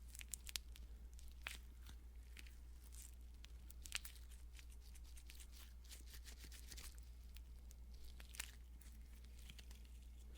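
Lotion-coated nitrile gloves rubbing against each other: faint, irregular crinkling with sharp little snaps and clicks, over a steady low electrical hum.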